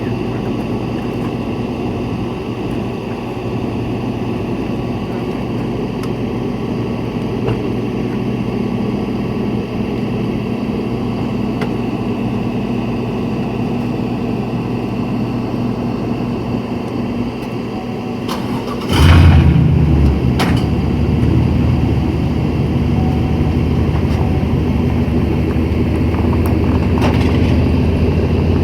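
Truck engine running steadily with the PTO engaged. About 19 seconds in, a second engine cranks and starts with a loud burst, then keeps running alongside at a louder, steady idle.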